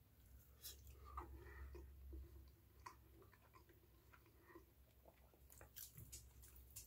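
Faint chewing of a bite of hamburger steak, with soft mouth clicks and smacks coming in scattered spells.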